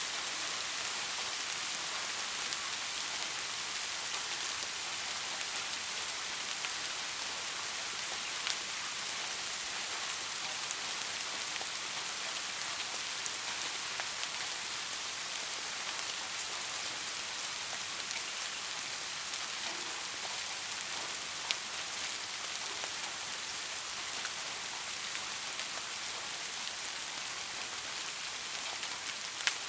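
Steady rain falling on a surface, a continuous hiss with occasional sharper drop ticks standing out.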